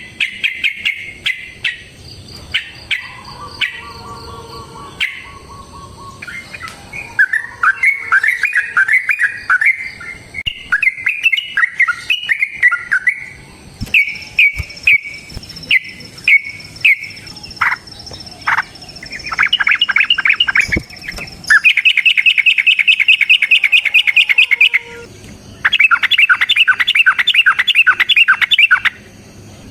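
Yellow-vented bulbul (trucuk) singing: short chirped notes and bubbling, warbled phrases, then two long rapid trills in the second half, each lasting about three seconds. Sharp clicks are scattered throughout.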